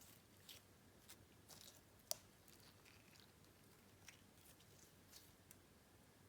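Faint sticky clicks and small crackles of clear slime with sprinkles and Fimo slices being stretched and squished by hand, with one sharper click about two seconds in.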